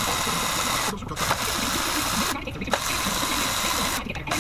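Power tool running in stretches of about a second and a half, stopping briefly between them.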